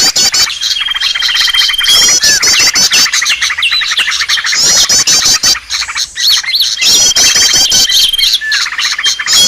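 Bird-lure recording of many small birds chirping and twittering together: rapid high trills, a held whistle and short falling notes over a dense chatter. The same pattern repeats every few seconds, as a looped lure track does.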